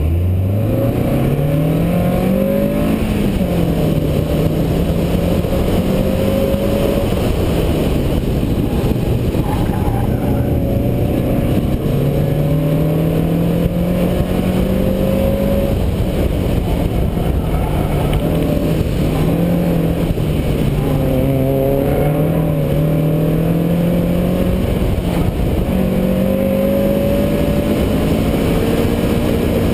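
1993 Mazda Miata's 1.6-litre four-cylinder engine pulling hard off the start, its revs climbing over the first few seconds, then rising and falling again and again with throttle and shifts through an autocross course.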